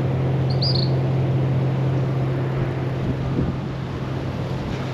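Steady wind noise with a constant low hum, and one brief, high bird call of a couple of quick notes about half a second in.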